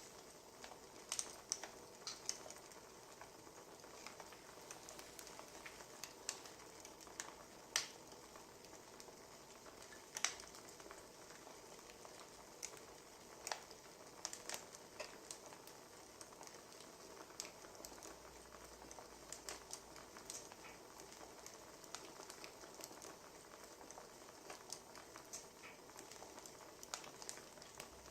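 Wood fire crackling: irregular sharp snaps and pops over a faint steady hiss.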